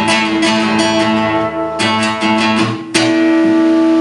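Acoustic guitar strummed in a steady rhythm between sung lines, with a chord change about three seconds in and the last chord left ringing.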